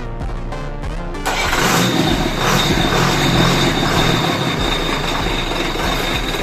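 Music for about the first second, then a sudden cut to a big engine running loud, with a steady high-pitched whine over the rumble.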